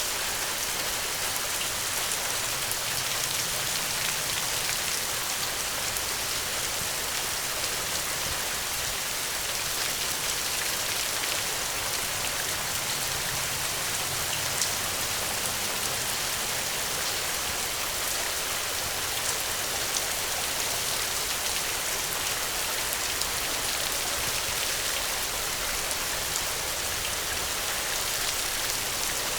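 Steady rainfall, a dense even hiss of drops on surfaces, with individual drops faintly picked out.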